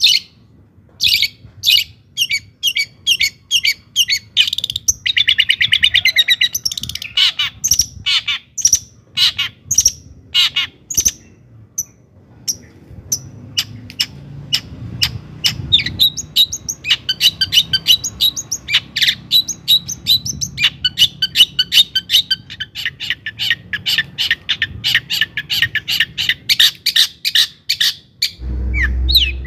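Long-tailed shrike (cendet) singing a fast, varied song of sharp, high chattering notes, with a buzzy rattle about five seconds in and rapid runs of notes later on. A low thud comes near the end.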